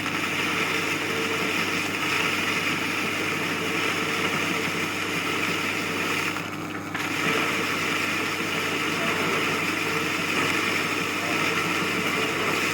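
Metal lathe running steadily while machining a bush, with a brief drop in the sound about six and a half seconds in.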